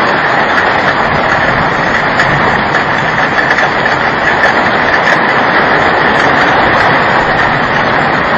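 Heavy rain pouring down in a severe storm: a loud, steady, even roar.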